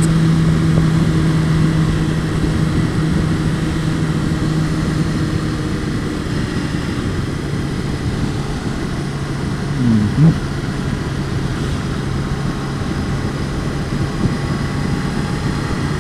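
Honda CBR600RR inline-four engine running steadily under way, with steady wind noise. About ten seconds in the engine pitch briefly dips and rises again.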